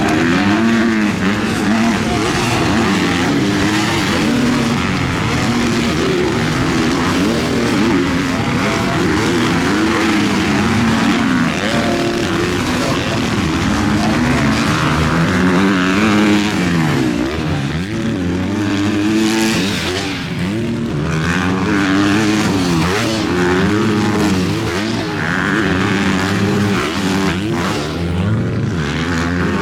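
Several MX2-class motocross bikes racing. Their engines rev up and fall back again and again as the riders accelerate, shift and back off, with the sounds overlapping.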